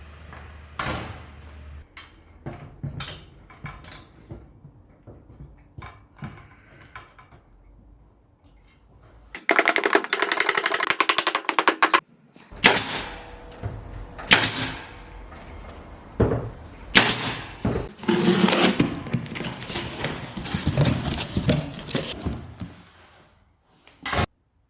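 Woodworking handling sounds: scattered knocks and scraping of wood and tools, with a power tool running in a fast, even buzz for about two and a half seconds near the middle, followed by more loud rubbing and knocking.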